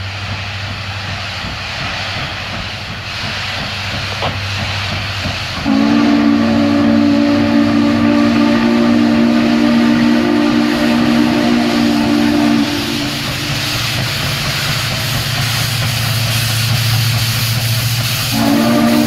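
A steam locomotive's chime whistle sounds a long blast of about seven seconds, starting some six seconds in, and a second blast begins near the end. Throughout, the locomotives working the train from a stop give a steady low rumble and steam hiss.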